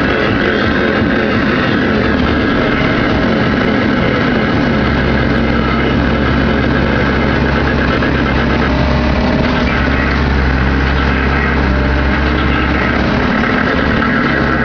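Diesel engine of a Volvo ECR88 Plus compact excavator running steadily while it works, a continuous drone whose low hum grows stronger about four and a half seconds in.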